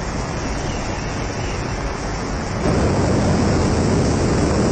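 Steady rushing wind noise of flight on the microphone, growing louder about two and a half seconds in.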